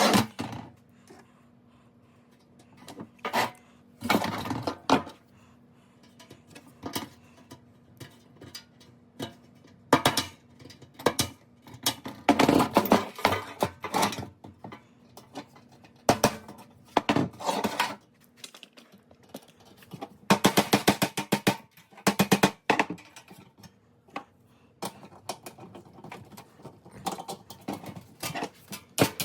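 Small metal parts and hand tools clinking and clattering against a pressed-steel toy truck, with two runs of rapid clicking.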